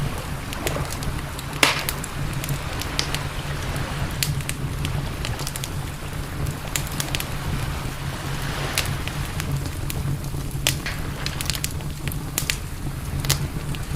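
Wood campfire crackling, with irregular sharp pops and snaps, the loudest about one and a half seconds in, over a steady low rumble.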